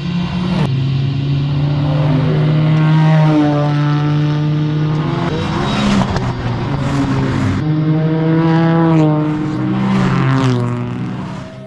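Small kei car engine running hard at high revs, its pitch holding and then shifting down and back up several times.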